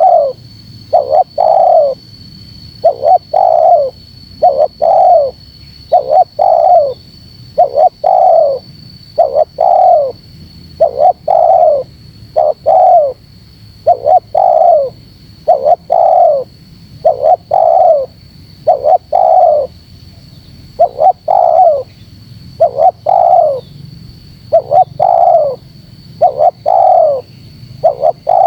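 Spotted dove (tekukur) cooing over and over in quick, tightly packed groups of short falling coos, about once a second: the rapid, pressing challenge call used to lure and provoke wild males.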